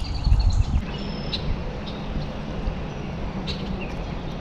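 Outdoor river ambience: wind rumbling on the microphone in the first second, a few faint high bird chirps, and a faint steady low hum.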